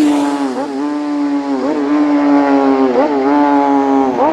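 Racing motorcycle at full throttle passing close by: its engine note drops in pitch as it goes past at the start. It then pulls away, changing up through the gears, each shift a brief dip and jump in the note, about three times.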